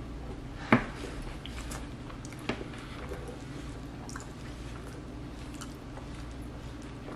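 Close-miked chewing of a tuna, onion and pickle wrap: soft, wet mouth sounds with a sharp click a little under a second in and a smaller one about two and a half seconds in, over a steady low hum.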